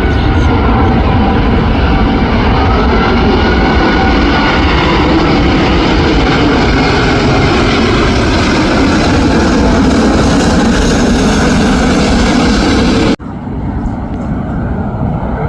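Jet airliner passing low overhead on approach to land: a loud, steady engine roar with a whine that slowly bends in pitch. About thirteen seconds in it cuts off suddenly to a quieter rumble.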